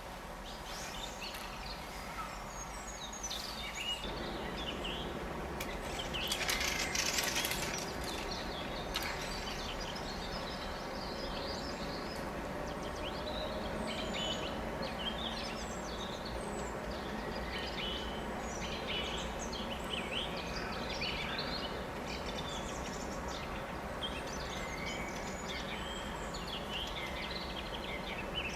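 Many small birds chirping and singing over a steady outdoor background hiss, with a louder rushing noise for about two seconds a quarter of the way in.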